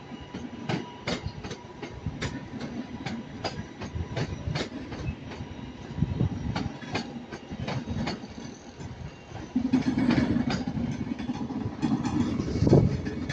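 Class 323 electric multiple unit rolling through the station, its wheels clicking over rail joints and points in an uneven run of sharp clicks, several a second. About two-thirds of the way in a steady low hum starts, and there is a loud thump near the end.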